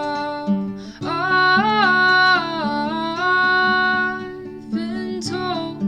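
A woman singing a slow, drawn-out melodic line over strummed and plucked acoustic guitar; the voice comes in about a second in, holds and bends its notes, and eases off before a few shorter sung notes near the end.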